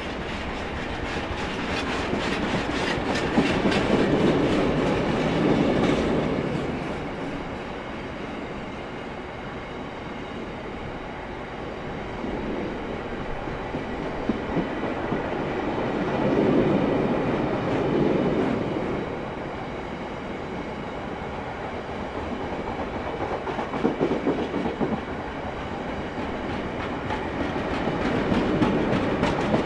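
Freight train of rail tank wagons rolling past, the wheels clattering over rail joints. The sound swells louder and eases off several times as groups of wagons pass close by.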